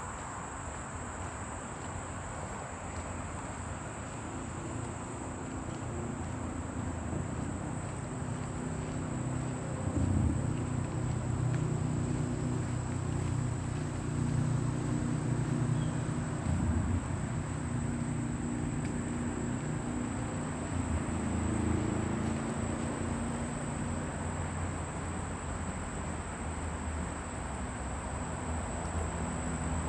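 Insects buzzing in a steady, high-pitched drone, over a low rumble of distant road traffic that grows louder through the middle and then eases.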